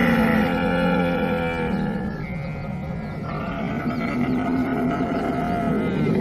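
Camel vocalising: long, continuous calls that shift in pitch.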